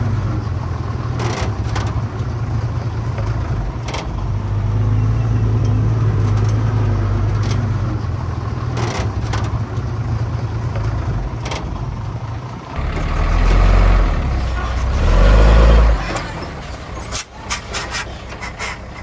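Heavy diesel earthmoving machinery running with a steady low drone. About two-thirds of the way in comes a louder, deeper rumble lasting about three seconds, and near the end a quick series of sharp knocks.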